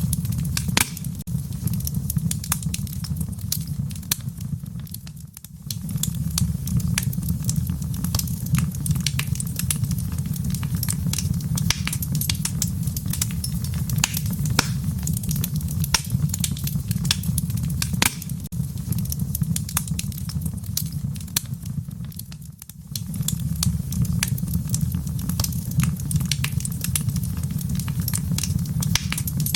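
A fire in a fireplace, crackling and popping with many sharp snaps over a steady low rumble of flame. The rumble fades briefly twice, about five seconds in and again near twenty-three seconds.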